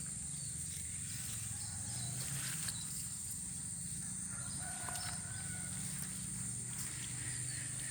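Outdoor rural ambience: a steady high-pitched drone and a low rumble, with a faint distant rooster crow about halfway through.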